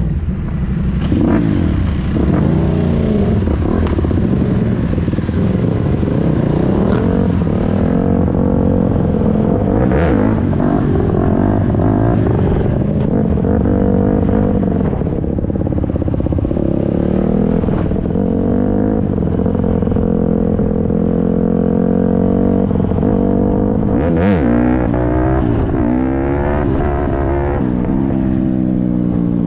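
Dirt bike engine being ridden, the revs rising and falling over and over as the throttle is worked and gears change.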